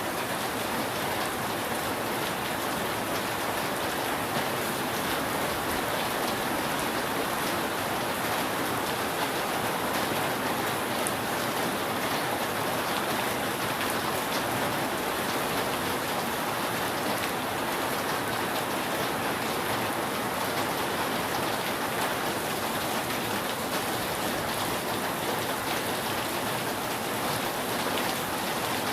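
Steady rain falling on a roof, a dense even patter of many drops with no let-up.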